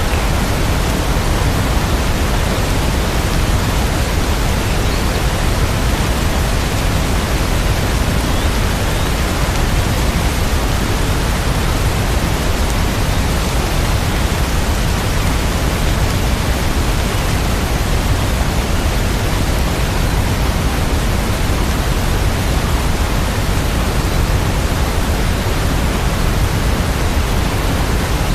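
Steady rain sound: an even, unbroken rushing hiss with no single drops, thunder or music standing out.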